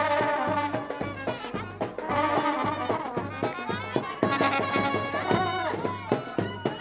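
Indian wedding brass band playing a lively melody over a steady drumbeat.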